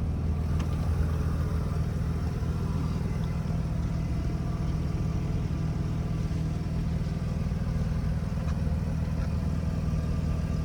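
1994 Mazda RX-7 FD's twin-turbo 13B rotary engine idling steadily as it warms up.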